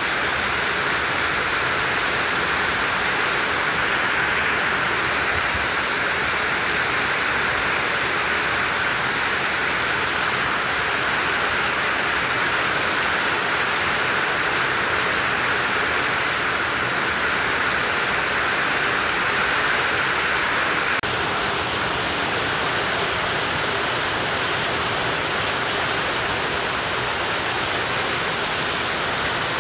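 Heavy tropical rain falling steadily, a dense, even hiss of downpour with no pauses.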